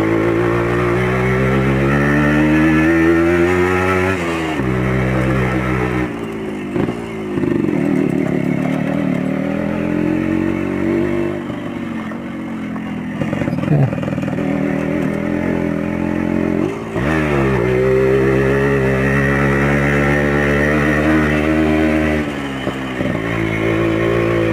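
Yamaha RX Special 115 cc two-stroke single-cylinder motorcycle engine through an original RX King exhaust, revving up and shifting about four seconds in. Through the middle it runs at lower, uneven revs, then climbs in pitch again and shifts once more near the end.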